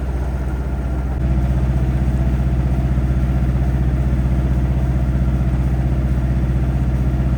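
Sailboat's diesel engine running steadily while motoring, with an even low pulse; it gets louder about a second in.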